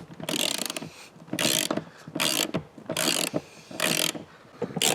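Ratchet wrench clicking in short repeated bursts, about six in a few seconds, as seat-mounting nuts are loosened.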